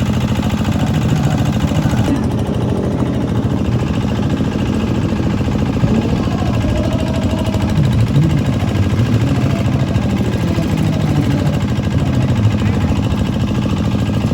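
Four-stroke 150cc underbone racing motorcycle engines running steadily at low revs, a continuous loud engine sound without big rev rises.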